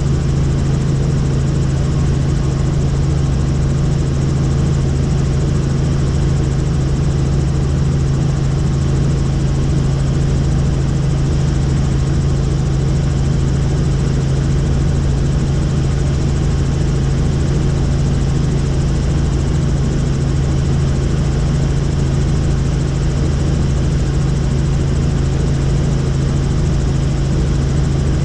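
Helicopter in flight: a loud, steady drone of rotor and engine that holds unchanged throughout.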